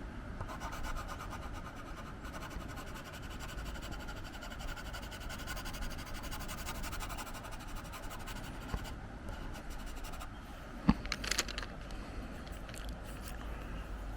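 Museum Aquarelle watercolor pencil scratching and rubbing in repeated strokes across synthetic Yupo paper, over steady wind noise on the microphone. A single sharp click about eleven seconds in is the loudest sound, followed by a few lighter ticks.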